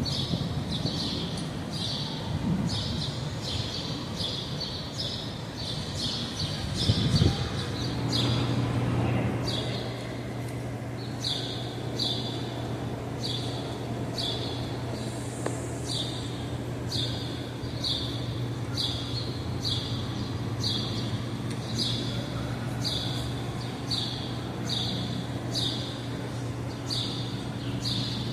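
A small bird chirping over and over in short, high chirps, about two a second at first and a little slower later, over a low city rumble. From about 8 seconds in, a steady low hum sets in under the chirps.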